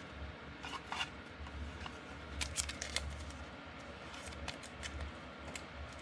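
Football trading cards being handled and flicked through, giving clusters of light clicks and snaps over a low steady hum.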